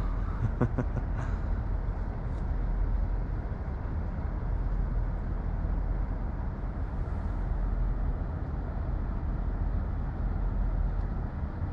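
Steady low rumble of city traffic, with a few faint ticks in the first second or so.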